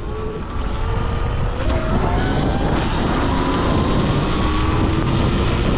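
Sur-Ron electric dirt bike's motor whining and slowly rising in pitch under hard acceleration, a launch for a wheelie that doesn't lift. Heavy wind rumble on the microphone.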